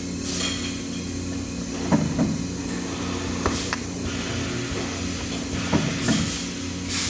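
Steady machinery hum in a metalworking shop, with a few scattered metal clinks and knocks and several short bursts of hiss.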